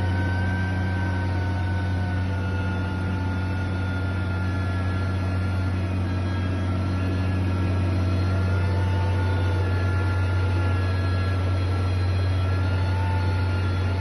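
Diesel engine of heavy construction machinery running steadily, with a constant low hum and a faint whine that drifts slightly in pitch.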